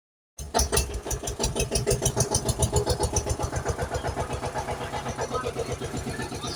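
Tractor engine starting and chugging in a rapid, even beat of about eight pulses a second, loudest at first, then settling a little quieter as it idles.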